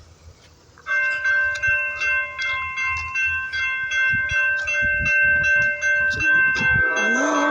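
Locomotive air horn blowing a long multi-note chord, starting suddenly about a second in and held, over a rhythmic clatter from the passing train; the chord shifts near the end.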